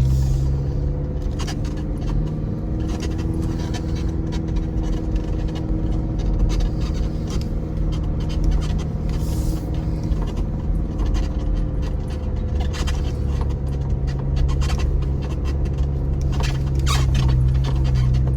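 2025 Chevy Colorado ZR2's turbocharged four-cylinder engine running steadily as the truck creeps over a rough mountain trail. Scattered clicks, rattles and scrapes come through, with a brief hiss near the middle.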